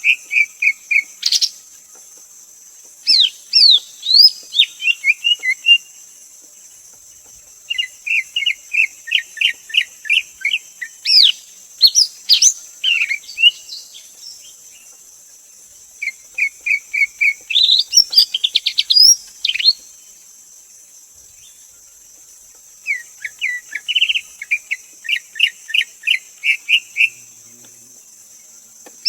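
Greater green leafbird singing: phrases of a few seconds made of rapid, chattering whistled notes, some with sharp upward-sweeping whistles, separated by pauses of about two seconds. A steady high-pitched buzz, like insects, runs behind the song.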